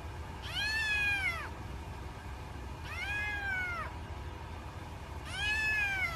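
Cat meowing three times, each meow about a second long, rising then falling in pitch, evenly spaced.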